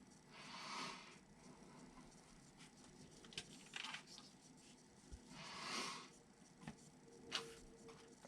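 Near silence: a few faint clicks and two soft hiss-like swells from hands handling small kit parts.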